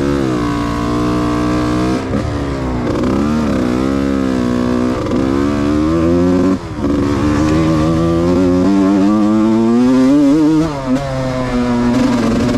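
Yamaha YZ125's single-cylinder two-stroke engine being ridden hard, its revs rising and falling again and again under throttle, with brief drops in engine noise about two, six and a half, and eleven seconds in.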